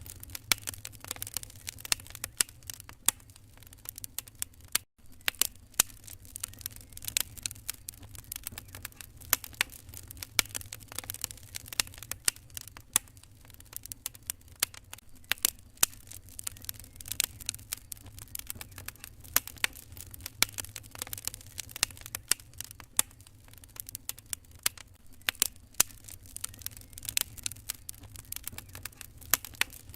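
Wood fire crackling in a fireplace: irregular sharp pops and snaps over a low steady rumble, with a brief break in the sound about five seconds in.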